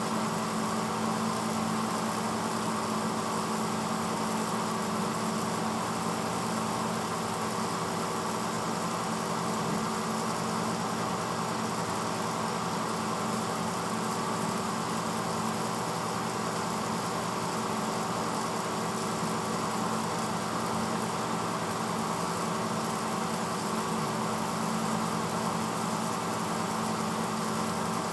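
1986 Hotpoint Potwasher dishwasher mid-cycle: its motor hums steadily with a rush of water spraying inside the tub.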